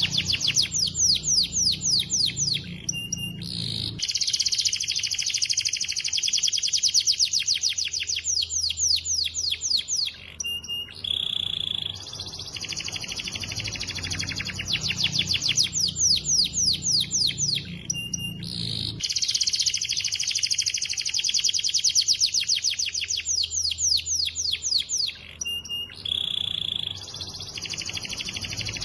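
Domestic canary singing: long trills of very fast repeated high notes, broken by short pauses and brief steady whistled notes between phrases.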